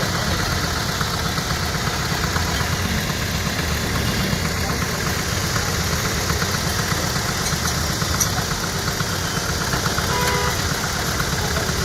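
Truck engine idling steadily with a rapid, even firing beat and a fine ticking from the valve train over it.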